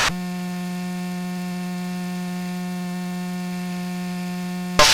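Steady pitched hum with a row of evenly spaced overtones, heard through a light aircraft's intercom audio in flight. A short burst of hiss comes near the end.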